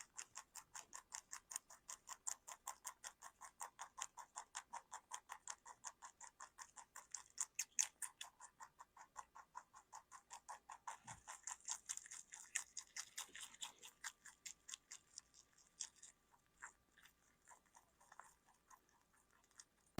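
Faint, quick clicks or ticks, several a second and fairly regular at first, growing sparser and uneven in the second half.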